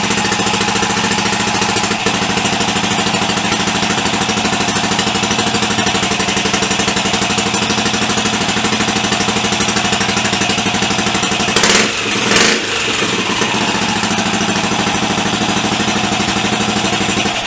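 Freshly rebuilt BSA B44 single-cylinder four-stroke motorcycle engine running steadily at idle, revved twice briefly about twelve seconds in before settling back; it sounds quite healthy.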